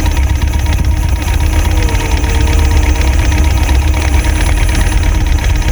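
Boat engine running steadily, a loud low drone with a fast even pulse.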